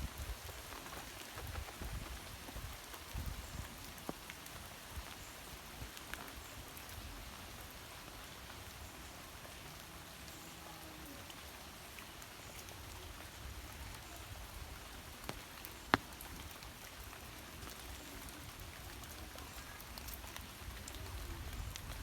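Steady rain falling, with scattered drops ticking close by and one sharp, louder drop tick about three-quarters of the way through.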